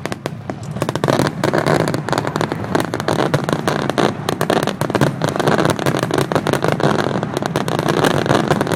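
Fireworks crackling: a dense rapid stream of small pops and crackles that thickens about a second in and keeps going, over a steady low rumble.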